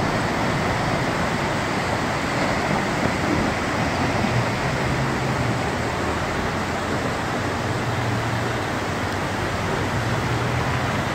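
Car engine and road noise: a steady rushing noise with a low engine hum underneath.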